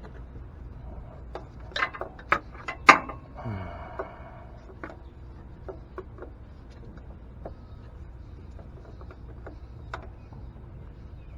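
Scattered metallic clicks and knocks of hands and a filter wrench working at an oil filter up under a pickup's frame, with a few sharp ones two to three seconds in and a short scrape just after, then only faint ticks.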